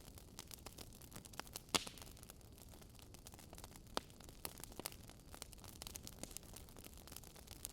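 Wood fire crackling in a fireplace: irregular sharp snaps and pops over a faint hiss, with louder pops a little under two seconds in and about four seconds in.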